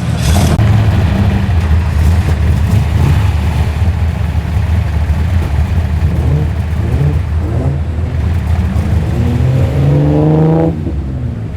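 A car engine running loud with a low rumble and a few short revs, then climbing steadily in pitch for about two seconds near the end before dropping away sharply.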